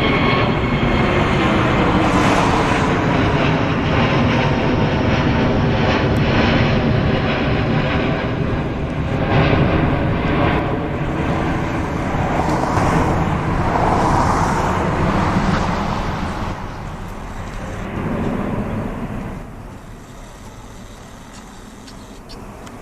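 Airbus A350-900's Rolls-Royce Trent XWB jet engines at take-off power, loud, with tones that fall in pitch as the airliner goes past. The noise dies away over the last few seconds.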